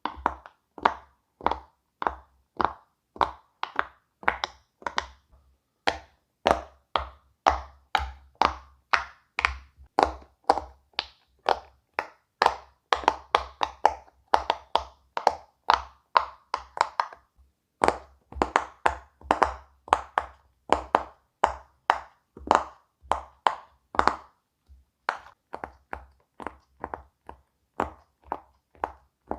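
Silicone pop-it fidget toy bubbles being pressed one after another, each giving a slight pop, about two to three a second with a couple of short pauses. The pops turn softer near the end.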